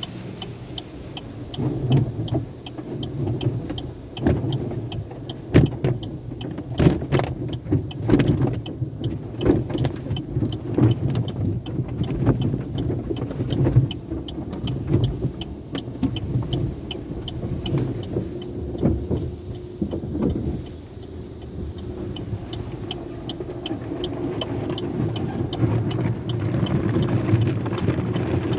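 A car wash tunnel running around a car, heard from inside it. There is a steady rumble and a fast, even ticking throughout, and repeated thumps and slaps of the wash equipment against the car that die away about three quarters of the way through.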